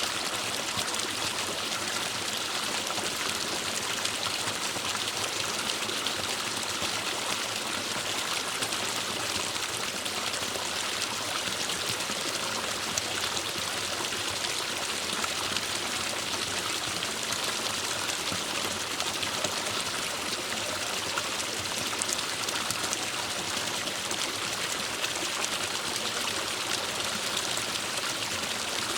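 Forest stream flowing over rocks, a steady rushing and trickling of water.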